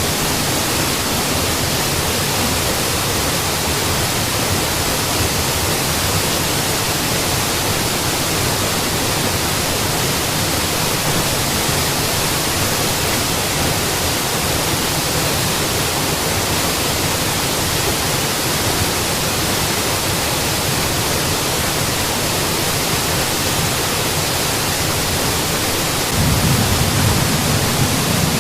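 Waterfall: a steady, unbroken rush of falling water, the low end growing a little stronger near the end.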